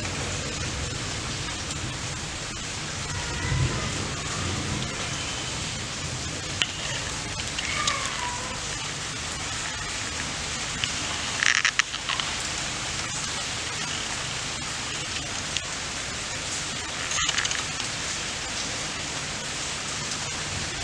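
Steady rain falling, an even hiss, with faint distant voices now and then and a brief clatter about halfway through.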